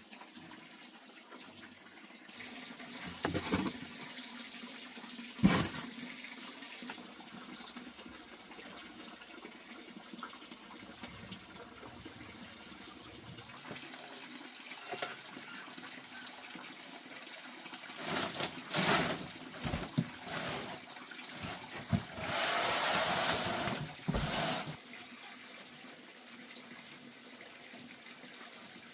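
Water running and splashing, with scattered knocks and a louder rush of water lasting about two seconds near the end.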